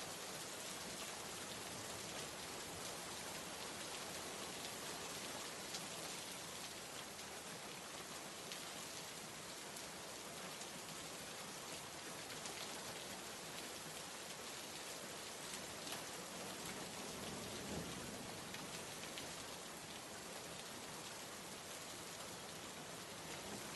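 Steady rain ambience, an even hiss of rainfall with scattered, slightly louder drops.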